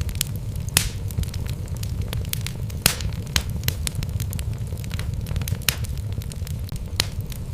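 Wood logs burning in a fireplace: a steady low rumble of the flames with frequent sharp crackles and pops, a few louder snaps among them.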